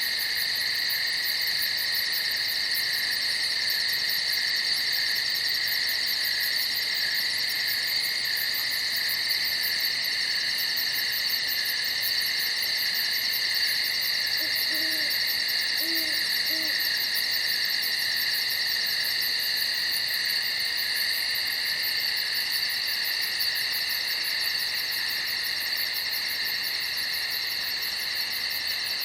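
Steady night chorus of crickets chirping, a continuous high shrill trill. About halfway through, a few faint, short, low hooting notes sound behind it.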